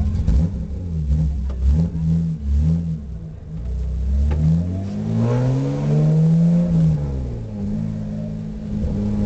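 BMW E30 325is engine revved in a string of short throttle blips, then one longer rev that rises and falls in pitch, settling to a steady idle near the end.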